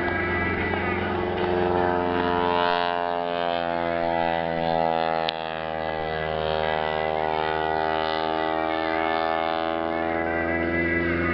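Aerobatic biplane's piston engine running, its pitch rising and falling slowly through the manoeuvres, over a steady low hum. A single sharp pop about five seconds in.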